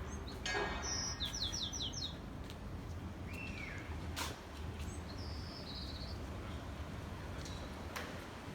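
Small birds chirping: a quick run of about five falling notes about a second in, then single chirps about three and five seconds in, over a steady low hum.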